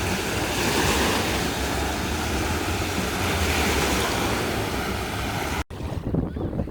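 Lake Michigan waves washing onto a sandy beach, with wind rumbling on the microphone. The sound cuts off abruptly near the end.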